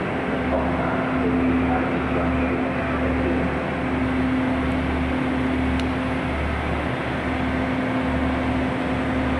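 Steady hum of diesel passenger trains idling at a railway platform, with a constant low drone under an even noise.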